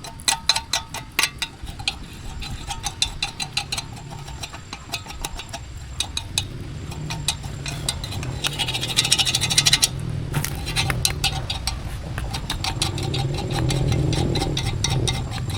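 Metallic rattling and clicking over a running engine, the engine growing louder through the second half.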